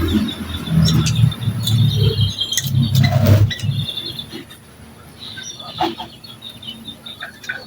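Small birds chirping in short, repeated high notes. Over the first half there is loud, low rustling and handling noise close to the microphone, and a single click near the six-second mark.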